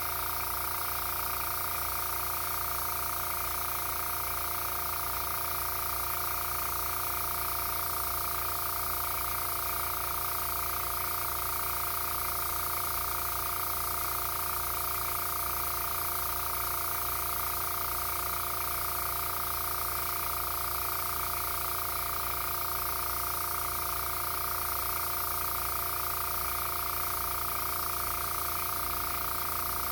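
Small airbrush compressor running steadily, a constant motor hum with air hissing through the airbrush as paint is sprayed.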